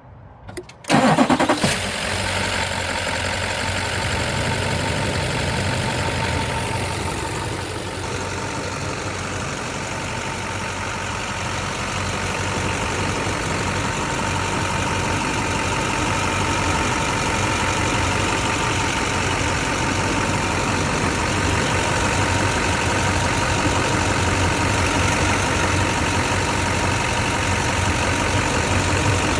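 2004 Chevrolet Silverado 2500HD's V8 engine cold starting: a brief crank about a second in, then it catches and settles into a steady idle.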